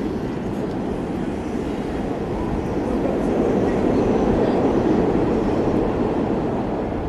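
Steady rushing noise of riding a bicycle through city traffic: wind on the camera's microphone mixed with road and traffic rumble. It swells to its loudest in the middle and eases off near the end.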